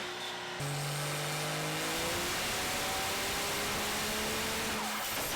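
Diesel truck engines accelerating hard under load, their pitch climbing slowly, in a few short clips that cut abruptly one to the next.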